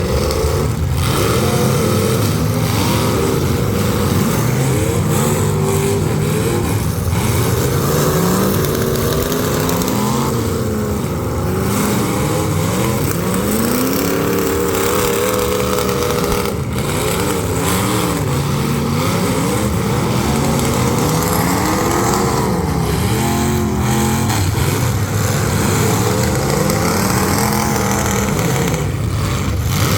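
Several full-size demolition derby cars' engines revving up and down at once, their pitches rising and falling over each other without a break.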